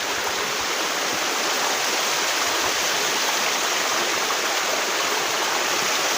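Waterfall water rushing steadily, an even hiss without breaks.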